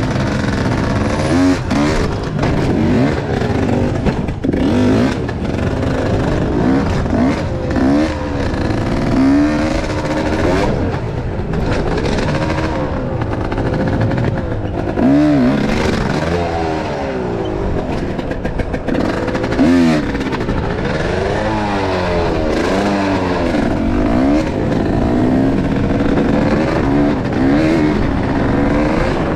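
Enduro motorcycle engine being ridden hard, its pitch rising and falling every second or two as the throttle is opened and closed, with scattered knocks and clatter.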